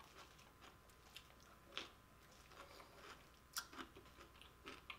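Faint, close-miked chewing of barbecue ribs, with a few soft mouth clicks, the clearest about two seconds in and again past halfway.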